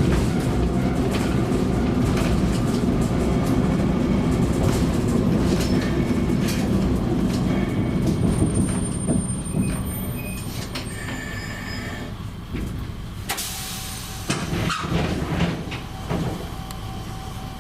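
KiHa 20 diesel railcar (No. 20-522, built by Teikoku Sharyo in 1965) running along the line: a steady low engine and running-gear rumble with scattered rail clicks. It grows quieter after about ten seconds, and there is a sharp clatter about thirteen seconds in.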